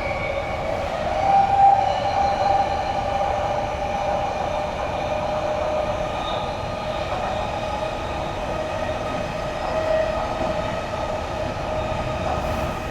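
Odakyu electric commuter train running between stations: a steady rumble of wheels on track with a steady hum from the traction motors.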